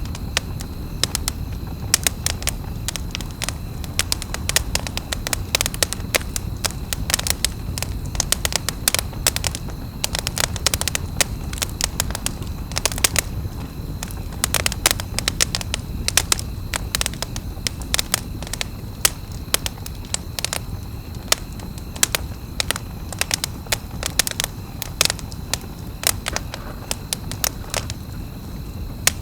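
Campfire crackling, with frequent irregular sharp snaps and pops over a steady low rumble.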